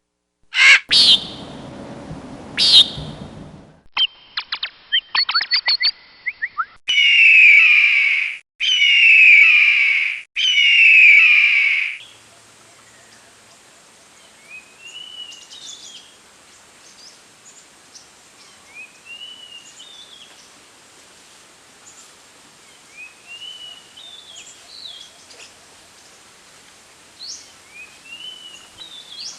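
A string of different birds' calls cut one after another. First come two short calls over a low rumble, then a rapid run of clicks, then three loud harsh calls each about a second and a half long. From about twelve seconds in, a faint rising whistled phrase repeats every four seconds or so over a steady hiss.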